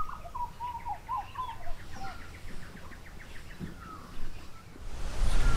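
Wild birds calling: warbling, gurgling phrases and a fast run of short notes over a low rumble. A louder low rumble and hiss build up near the end.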